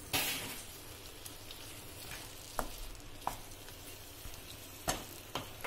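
Raw prawns sizzling in a non-stick pan of tomato-onion masala as a wooden spatula stirs them in, with several short knocks of the spatula against the pan.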